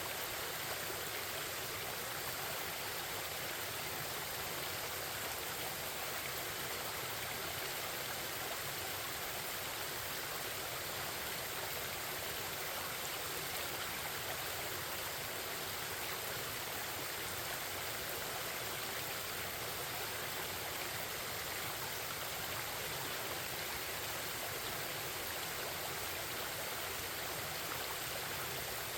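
Forest stream babbling and flowing steadily, an even rush of water with no change.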